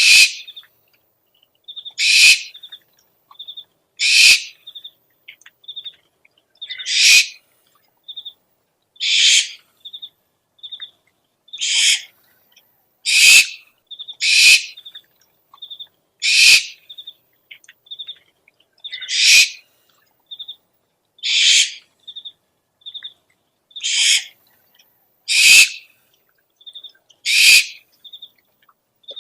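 Owl calls: a harsh, hissing screech about every two seconds, with short, thin, high peeping notes, often in pairs, between the screeches.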